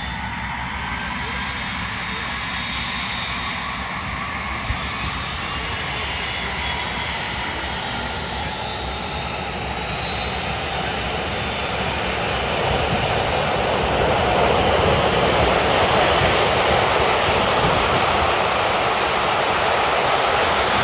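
Red Arrows BAE Hawk T1 jets' Adour turbofan engines starting up: several whines rise in pitch over a steady jet roar as the engines spool up, and the sound grows louder through the first half.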